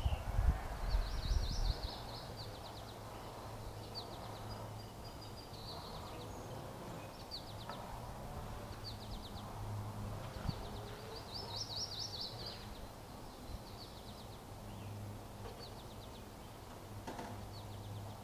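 Outdoor ambience of songbirds singing short, high trills of rapid notes every second or two, over a steady low hum, with a low rumble in the first couple of seconds.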